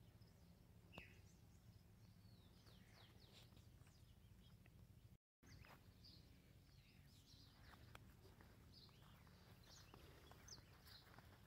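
Near silence with faint small-bird chirps scattered throughout over a low steady background hum. The sound cuts out completely for a moment about five seconds in.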